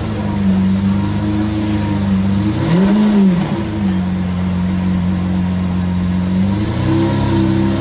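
Lamborghini supercar engine idling through its exhaust, blipped once about three seconds in, with the pitch rising and falling quickly, and lifting again near the end.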